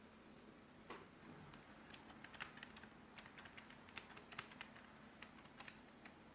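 Typing on a 2.4 GHz wireless office keyboard: a run of irregular key clicks lasting about five seconds, faint, over a low steady hum.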